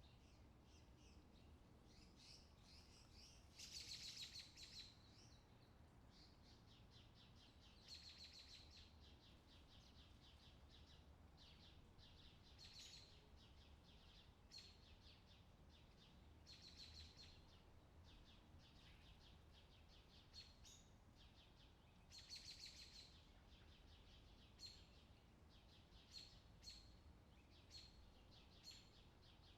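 Faint outdoor summer ambience of birds chirping: longer trills every few seconds, then short chirps about once a second near the end, over a low steady background hum.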